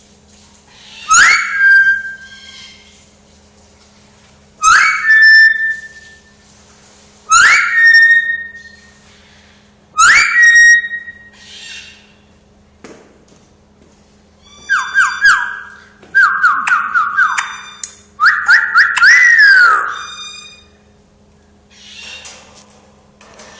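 Pet parrot whistling: four short whistles a few seconds apart, each a sharp note that rises and holds briefly, then a run of quick stepped whistle phrases ending in a falling glide.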